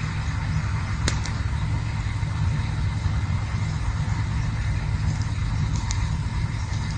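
Campfire burning: a steady low rush with scattered faint crackles and one sharp pop about a second in.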